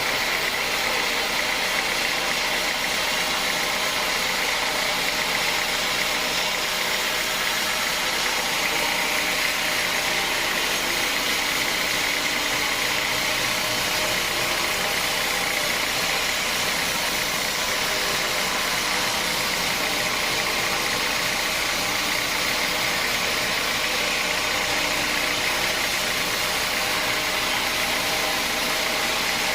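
Sawmill machinery running steadily: an even, unbroken machine hum with a steady higher-pitched band over it, no cuts or knocks standing out.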